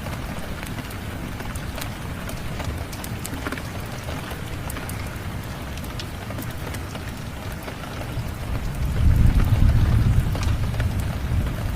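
Steady rain with scattered fireplace crackles, and a low rumble of thunder swelling up about eight seconds in and easing off near the end.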